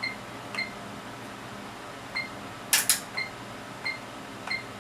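HP 3245A universal source giving short, high electronic beeps, about seven at irregular spacing, as its front-panel keys are pressed while the demo mode is running. Two sharp clicks come close together a little past the middle and are the loudest sounds.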